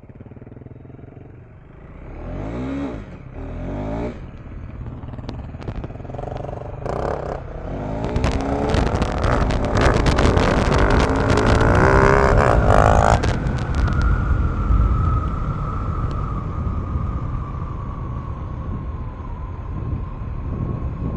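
KTM 390 Enduro R's single-cylinder engine under way on a steep dirt trail, revving in surges. Midway comes a loud stretch of dense knocking and clattering. After that the engine note settles and drifts slowly lower.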